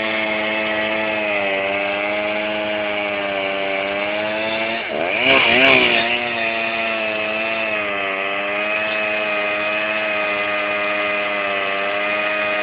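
A small engine running steadily with a slightly wavering pitch; about five seconds in it dips, then revs up briefly and louder before settling back to the same speed.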